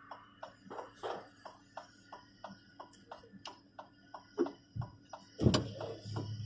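A vehicle's turn-signal indicator ticking evenly, about three clicks a second, with a loud low thud about five and a half seconds in.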